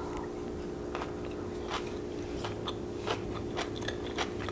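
Close-up chewing of a mouthful of kimchi fried rice: soft, irregular wet clicks and smacks from the mouth. A steady low hum runs underneath.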